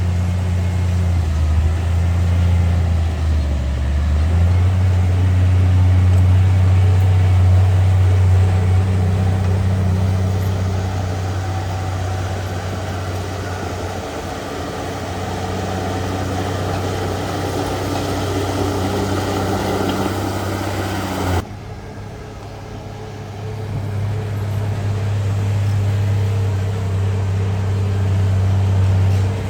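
Heavy earthmoving machine's diesel engine running with a steady low hum. The sound changes abruptly about two-thirds of the way through, dropping in level, then builds back up.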